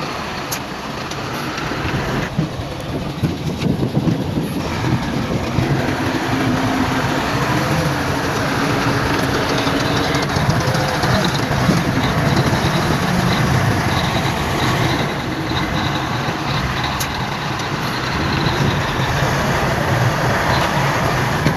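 Heavy diesel earthmoving machinery working: a steady, loud engine drone with rumbling, and scattered sharp knocks about two to five seconds in.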